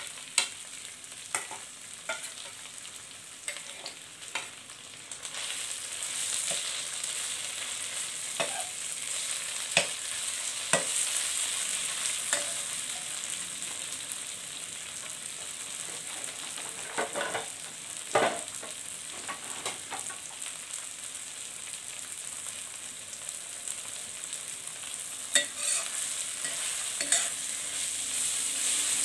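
Curry paste sizzling as it fries in hot oil in an electric wok, growing louder about five seconds in, with a metal spatula scraping and clicking against the wok as it is stirred.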